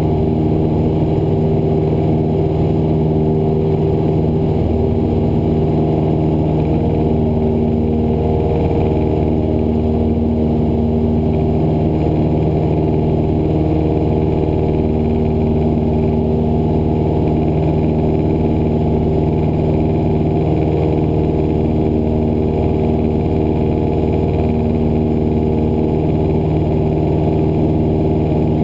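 Cessna 172's piston engine and propeller droning steadily in flight, an even, unchanging hum of stacked tones.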